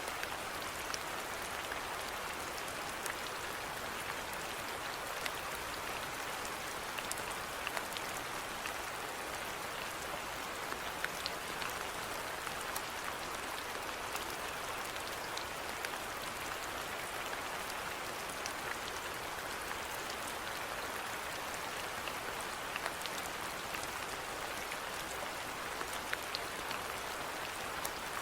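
Steady rainfall with individual drops pattering on a surface, an even hiss with scattered small drop clicks.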